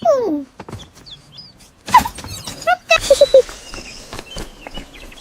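Cartoon animal sound effects: a loud falling, meow-like cry at the start, then scattered short chirps and clicks, a quick run of chirps about two seconds in, and a burst of hiss with a few short cheeps about three seconds in.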